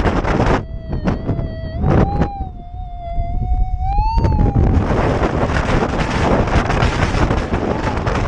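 Wind buffeting the microphone. About half a second in the wind drops and a metal detector's wavering tone sounds for about four seconds, rising in pitch near the end before fading, as the wind comes back.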